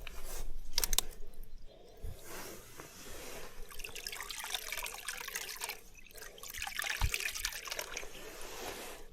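Water pouring and trickling in two spells, with a dip about six seconds in, after a few sharp clicks in the first second.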